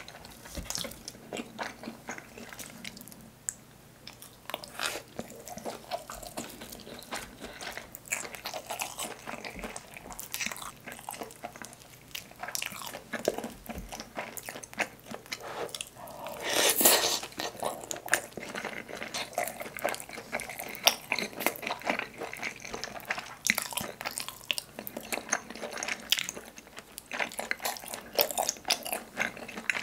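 Close-miked biting and chewing of a seaweed-coated rice ball dipped in spicy tteokbokki sauce, a continuous run of small crunches and mouth clicks, with one louder, longer burst of sound about halfway through.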